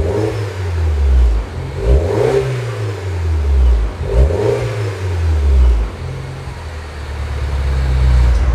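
MINI Clubman's engine breathing through a custom one-off exhaust, revved in three blips about two seconds apart, each rising and falling, then held steadier and building slightly near the end.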